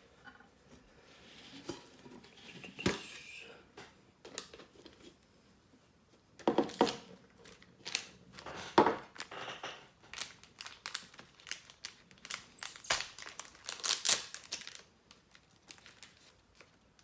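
Crinkling and rustling from handling a tin of Cape Cod metal polishing cloths while a cloth is taken out, with scattered sharp clicks and knocks from the tin.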